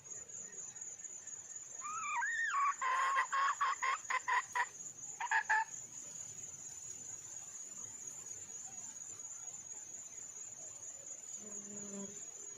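Junglefowl hen calling: a short rising-and-falling note, then a fast run of about a dozen clucks and two more clucks close after. A steady high insect drone runs underneath.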